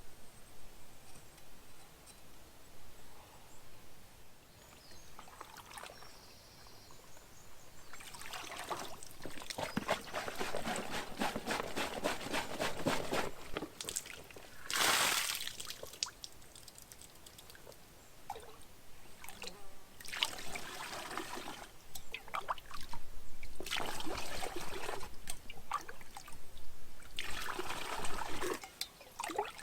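Water being poured and trickling in several separate pours with short pauses between, one brief louder splash about halfway through.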